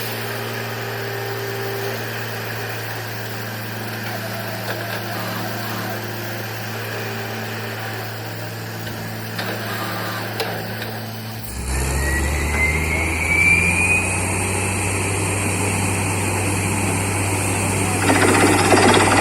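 Borewell drilling rig's engine running steadily. About two-thirds of the way in its note drops lower and a rising whine comes in for a couple of seconds. Near the end a louder, noisier sound starts up.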